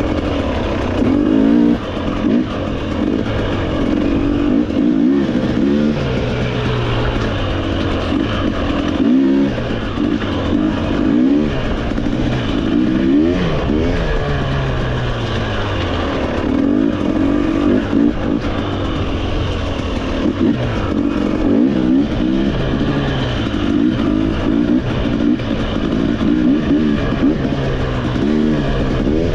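Off-road motorcycle engine running under load, its pitch repeatedly rising as the throttle opens and falling back as the rider eases off and shifts.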